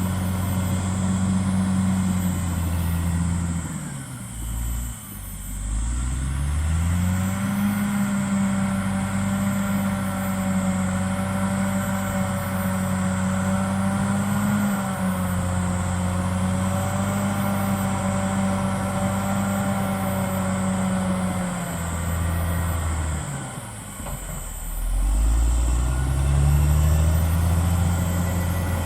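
CAT D6R XL bulldozer's diesel engine working under steady high revs. The revs drop away twice, a few seconds in and again near the end, and climb back up each time, with a whine over the middle stretch.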